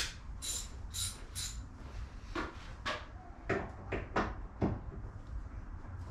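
Socket ratchet with a T47 Torx bit working the hood bolts: a series of short, sharp metallic clicks about twice a second, in two runs.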